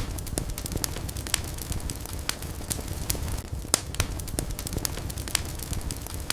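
Wood fire burning in a fireplace: frequent sharp crackles and pops, several each second, over a steady low rumble of flame.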